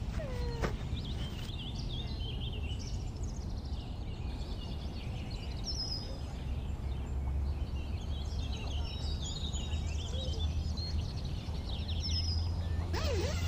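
Outdoor ambience: several birds chirping and calling on and off over a steady low rumble.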